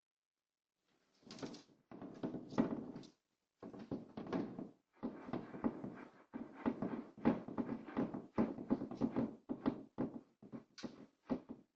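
A cat digging and scratching in a litter box: short scratching strokes in irregular runs, starting about a second in.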